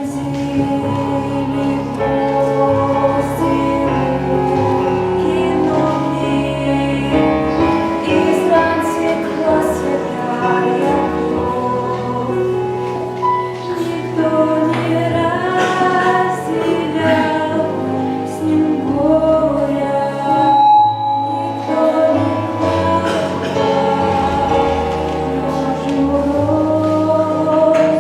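A song sung with instrumental accompaniment: a voice carrying the melody over sustained chords and a bass line, with a brief drop in the accompaniment a little over two-thirds of the way through.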